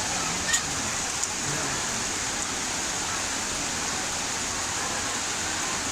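Heavy rain falling in a steady hiss, with a sharp tap about half a second in.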